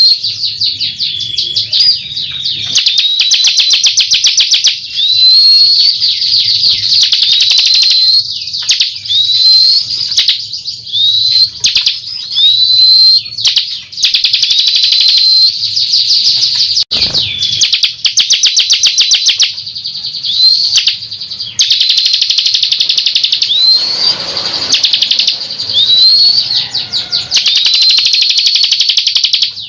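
Bar-winged prinia (ciblek kristal) song as used for a lure call: fast, dense trills of high chirping notes, broken by a short upturned, rising note that comes back every second or two.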